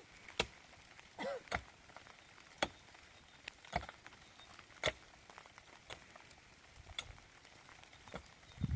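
Scattered light clicks and taps, about one a second, with a short squeak about a second in.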